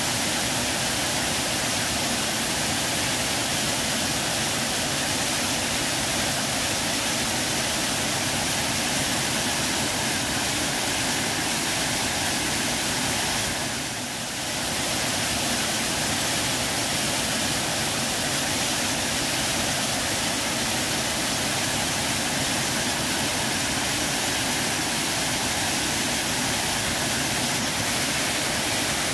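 Waterfall, water pouring steadily in an even, unbroken rush, dipping briefly in level about halfway through.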